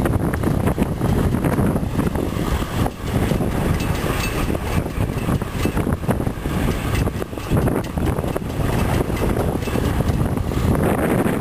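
Strong wind buffeting the microphone: a loud, gusting rumble that rises and falls throughout.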